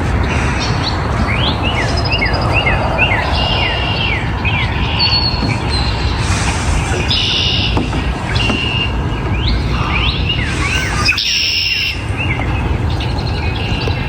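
Wild birds singing and chirping: runs of quick downward-sliding chirps and several short buzzy calls, over a steady low rumbling noise that drops away for about a second near the end.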